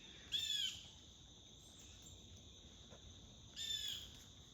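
A bird calling in short arched chirps, one near the start and another about three and a half seconds in, over a steady high-pitched drone of insects.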